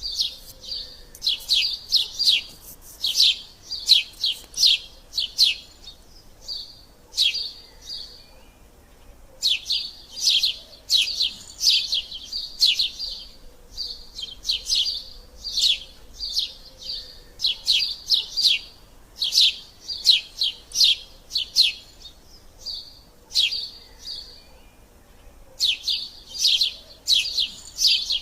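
Eurasian tree sparrows chirping in fast runs of sharp, high chirps, several a second, broken by short lulls: the excited chatter of sparrows fighting.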